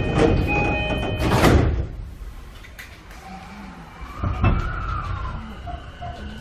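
JR 209-500 series commuter train's sliding doors closing, with a steady chime sounding, then shutting with a loud thud about a second and a half in. After that it is quieter, with a single knock a few seconds later and a faint steady whine setting in near the end.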